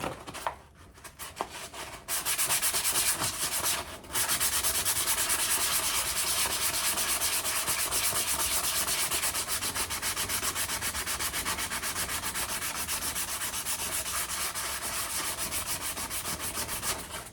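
240-grit sandpaper rubbed by hand on a rusty steel axe head wet with WD-40, in fast, even back-and-forth strokes, taking off surface rust. The strokes start about two seconds in and pause briefly near four seconds.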